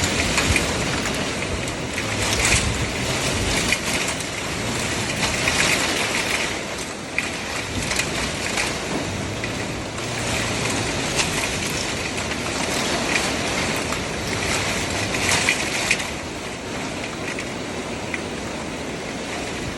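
Steady rushing noise of wind and water, swelling in louder hissy surges every two to three seconds.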